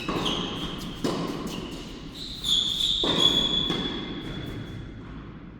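Tennis ball knocks echoing in an indoor court: three sharp hits about a second, then two seconds, apart. Shoe squeaks on the court surface come between them in the second half.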